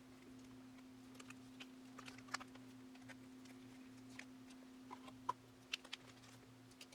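Faint scattered ticks and light taps from photocards and plastic binder sleeves being handled, over a steady low electrical hum.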